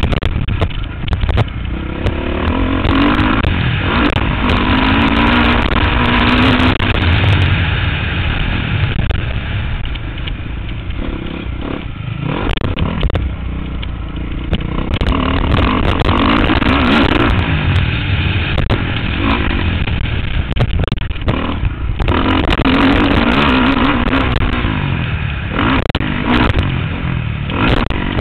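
Motocross bike engine revving up and down again and again as the rider works the throttle around the track, with a heavy low wind rumble on the helmet-mounted microphone and scattered clattering knocks.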